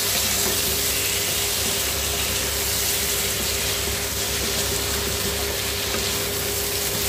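Climbing perch and radish pieces sizzling in hot spiced oil in a wok while a wooden spatula stirs them: a steady frying hiss, with a faint steady hum underneath.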